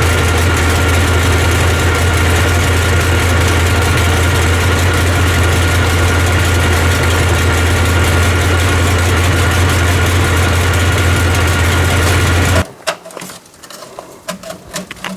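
Truck engine running steadily through its new exhaust, a deep even drone. It cuts off abruptly a few seconds before the end, leaving a few light clicks.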